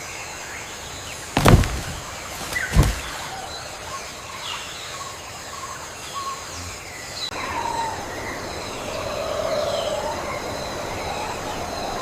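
Tropical forest ambience: many birds chirping and calling over a steady high insect hiss. Two loud, sharp calls come about a second and a half apart near the start, and livelier calls follow past the middle.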